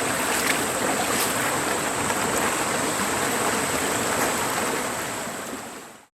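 Valley stream running steadily, fading out to silence near the end.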